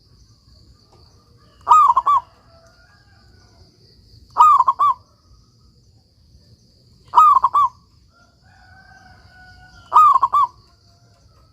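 Zebra dove (perkutut) cooing its song: four short phrases of a few quick notes each, repeated about every two and a half to three seconds, over a faint steady high tone.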